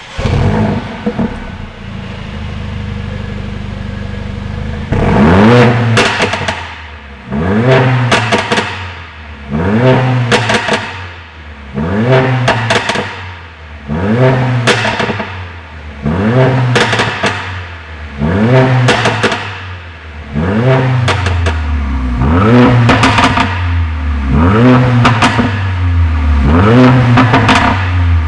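Mercedes-AMG A45's turbocharged four-cylinder, through a modified exhaust with re-routed muffler internals and the centre pipe removed, idling and then blipped about once every two seconds, each rev rising and falling back with popping and crackling on the overrun.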